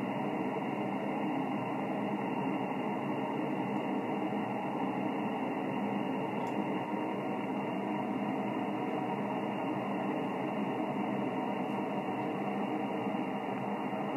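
Steady hiss and static from a Yaesu FT-1000MP HF ham radio receiver on the 20-metre single-sideband net, with no station transmitting. The sound is narrow and telephone-like, with nothing in the upper treble.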